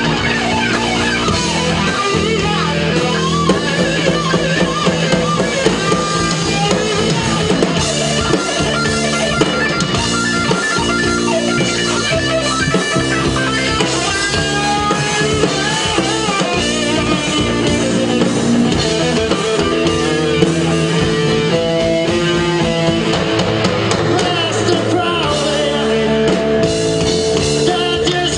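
Rock band playing live: electric guitar over a drum kit, with a steady beat.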